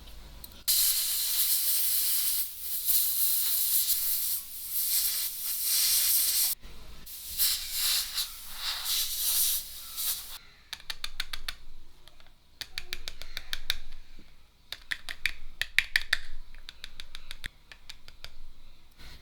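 A loud hiss of spray or blown air for several seconds, breaking off and resuming in spurts, followed by a long run of quick, sharp scratching or clicking strokes.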